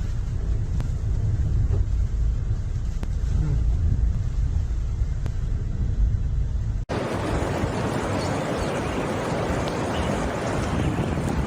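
Storm footage audio: a heavy low rumble for about seven seconds, then a sudden cut to a steady rushing noise of fast-flowing floodwater.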